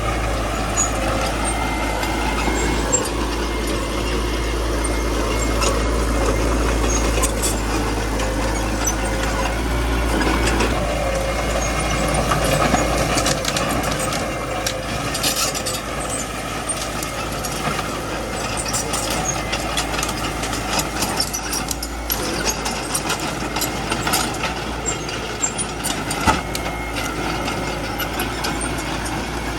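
Small bulldozer's diesel engine running steadily at work, with many scattered sharp cracks and clanks. The deep rumble eases about halfway through.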